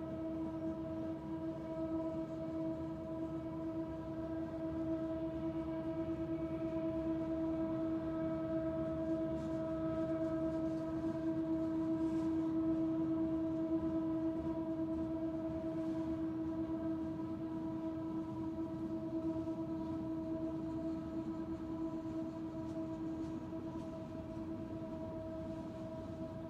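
Norfolk Southern mixed freight train moving slowly up a mountain grade, its rumble carrying a steady, unbroken whine. The sound swells to its loudest about halfway through, then eases off.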